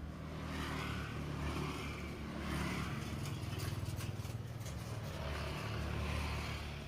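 Background road traffic: motor vehicle engines humming low and steady, swelling and fading a few times as vehicles pass, with a few faint clicks.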